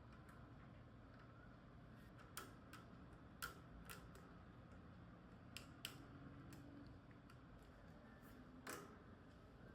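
Near silence with about half a dozen faint, sharp clicks and taps at irregular intervals over a low room hum, from a table fan's parts being handled during cleaning.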